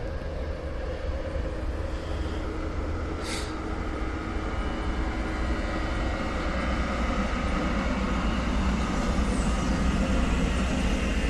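A train rolling on the track at a station, a steady rumble that grows slowly louder, with one brief sharp click about three seconds in.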